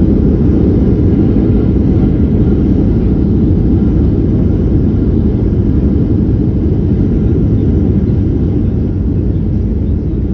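Boeing 737-800 heard from inside the cabin during landing: a loud, steady low rumble of engines and airflow that eases slightly near the end.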